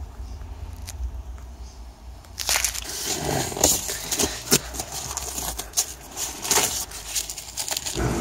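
Masking tape and masking paper being handled: crinkling with many sharp crackles and tearing, starting a couple of seconds in and going on irregularly.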